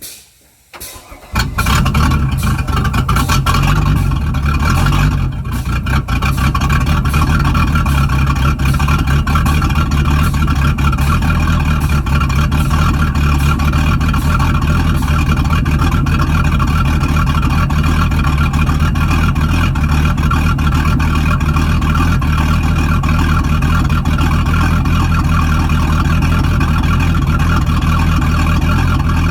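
A boat's sterndrive (inboard/outboard) engine starts up about a second in and runs steadily: its first start in three weeks, after a rebuild of the drive's gimbal bearing, U-joints and bellows.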